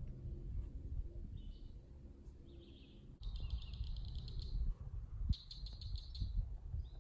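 Songbirds calling: a few short chirps, then, from about three seconds in, longer trilled calls and a quick run of repeated notes, over a low background rumble.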